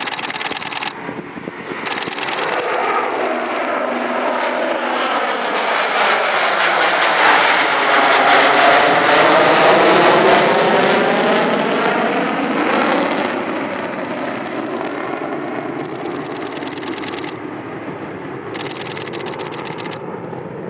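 Two B-1B Lancer bombers' jet engines, four afterburning turbofans each, as the pair flies past in close formation with afterburners lit and climbs away. The roar builds to its loudest about halfway through, sweeping in pitch as the aircraft go by, then slowly fades.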